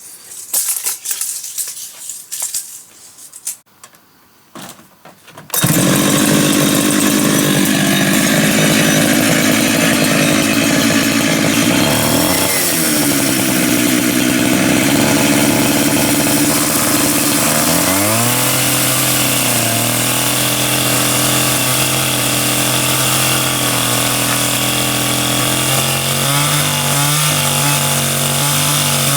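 Chainsaw engine starting up about five seconds in after some short irregular noises, then running steadily and loudly, its pitch shifting a couple of times as the load changes.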